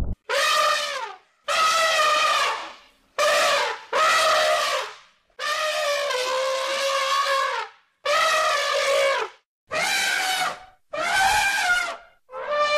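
Elephants trumpeting: about nine calls in quick succession, most about a second long and one lasting over two seconds, the pitch often dropping at the end of a call.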